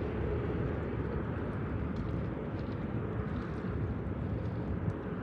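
Distant jet airliner at takeoff power: a steady, even rumble of engine noise with no distinct events.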